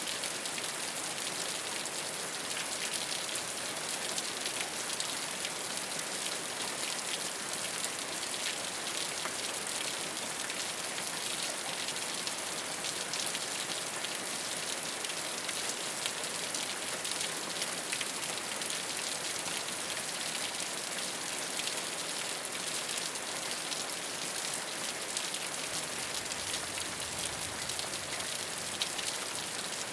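Steady rain falling on a rooftop: a continuous bright hiss with many small drop ticks through it.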